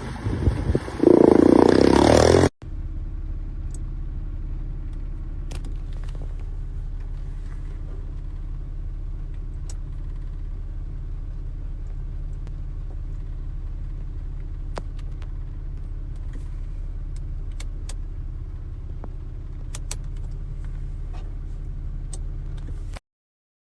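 Wind buffeting the microphone for about two seconds, then after a cut a steady low rumble of a vehicle running, with a few faint clicks, which stops suddenly near the end.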